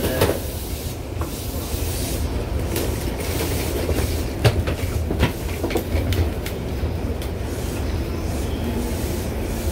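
Running noise heard from inside the passenger car of a JR Chuo Line Rapid E233-series commuter train: a steady low rumble, with a few sharp clicks and knocks from the wheels on the track around the middle.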